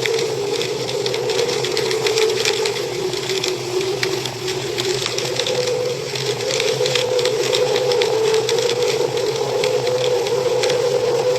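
Wood fire crackling in a fireplace: a continuous stream of small sharp pops and snaps over a steady hum.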